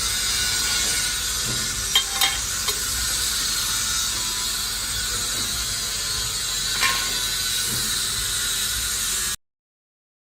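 Amada HFB 125-40 hydraulic CNC press brake running: a steady hiss with a few sharp mechanical clicks, three close together about two seconds in and one near seven seconds. It cuts off abruptly a little over nine seconds in.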